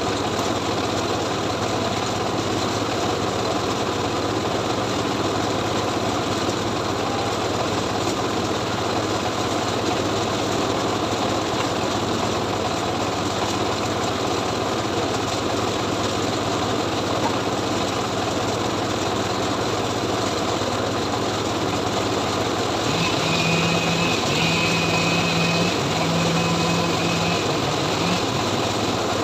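Engine-driven homemade log saw running steadily. Near the end a higher pitched tone comes and goes about four times.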